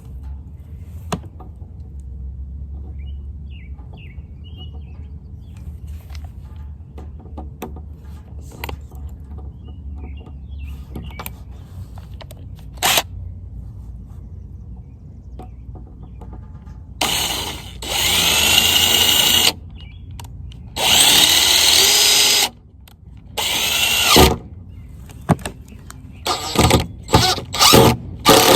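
Power drill driving screws into wood: two long runs of a couple of seconds each past the middle, a shorter one, then a string of quick trigger pulls near the end, after scattered light knocks.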